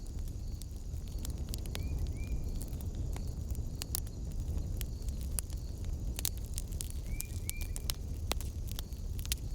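Wood fire in a fireplace burning with a steady low rumble and irregular sharp crackles and pops. Twice a faint pair of short chirps sounds over it.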